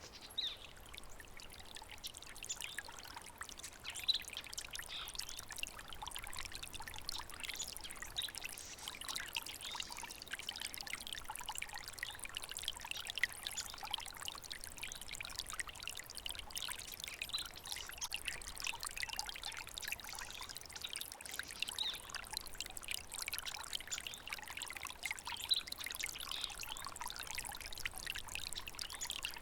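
Small water stream trickling and burbling steadily over stones.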